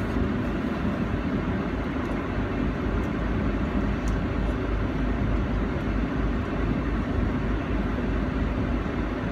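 Steady low rumble of a vehicle driving, with no distinct events.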